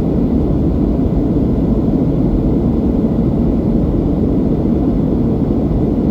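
Steady low-pitched cabin noise of a Boeing 737-800 in flight: its CFM56-7B turbofan engines and the airflow over the fuselage, heard from a passenger seat.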